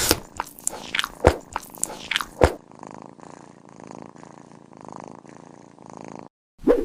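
A cat crunching food, with sharp bites spaced irregularly over the first couple of seconds. Then a steady, softer purring rumble lasts about four seconds and cuts off abruptly near the end.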